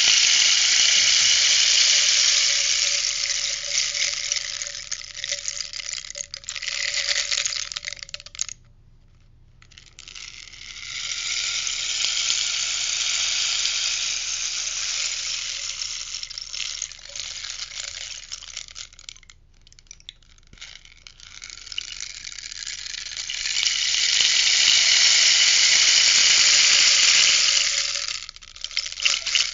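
Rainstick turned over three times, each a long rustling cascade of its filling trickling down the tube for about eight to nine seconds, with a short pause between turns.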